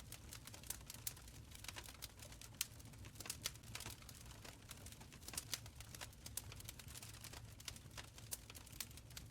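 Open fire crackling in a stone fireplace: irregular sharp snaps and pops, several a second with a few louder ones, over a low steady rumble.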